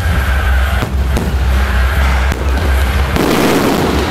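A fireworks display goes off, aerial shells and ground fountains, with several sharp bangs and a dense burst of crackling about three seconds in. Loud music with a heavy bass beat plays underneath.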